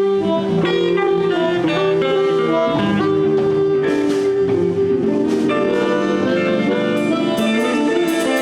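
Live blues band playing an instrumental passage between vocal lines: guitar lead over bass and drums. Near the end, a cymbal starts ticking in an even beat.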